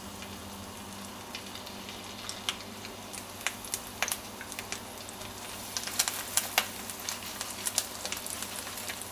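Crumbed chicken thighs frying in olive oil in a non-stick pan on low heat: a soft, steady sizzle with scattered pops and crackles, which come more often in the last few seconds as more pieces go into the oil.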